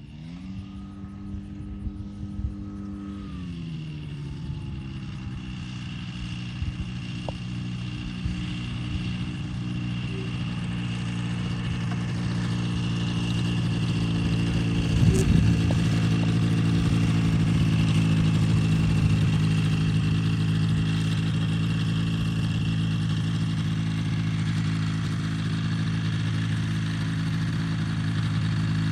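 CGS Hawk ultralight's engine and propeller running. It revs up briefly at the start, then drops back a few seconds in to a steady lower speed. The sound grows gradually louder over the first half, with a brief thump about halfway through.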